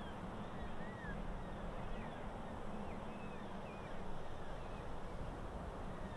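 Wind blowing steadily with a low rumble, and faint birds chirping several times.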